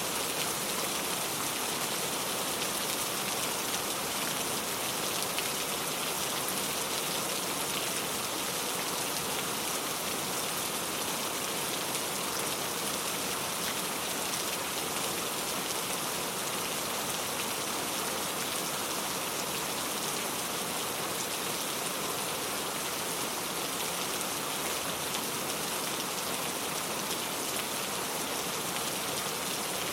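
Steady rain falling, an even hiss of rain on a surface with no break or change.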